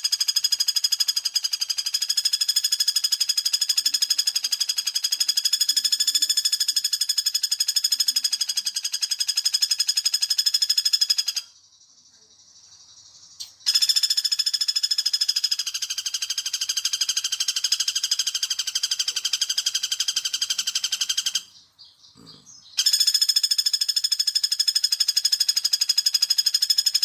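Pelatuk bawang woodpecker lure call: a rapid, even trill of repeated notes on one pitch. It runs for about eleven seconds, breaks off for two seconds, runs about eight more, stops briefly, then resumes.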